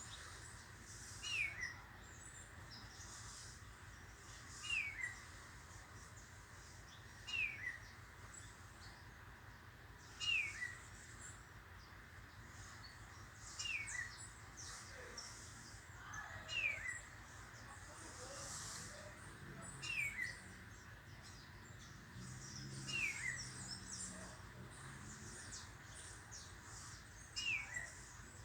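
A bird repeating one short, falling whistled call about every three seconds, nine times in all, over low, steady background noise.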